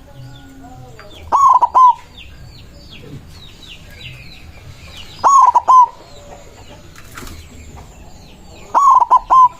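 White zebra dove (perkutut) singing: three loud cooing phrases of a few quick notes each, about three and a half seconds apart, with faint chirping in the background.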